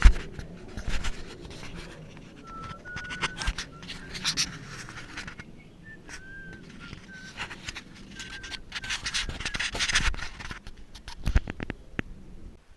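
Irregular scraping and rubbing with many sharp clicks, and a few short high squeaks in the middle stretch.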